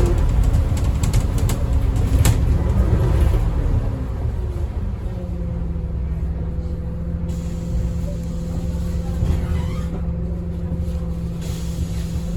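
Scania N230UD double-decker bus's engine heard from inside the saloon. It drops back as the driver comes off the throttle at the start, with a few sharp clicks and rattles in the first three seconds. From about five seconds in it settles to a steady low drone.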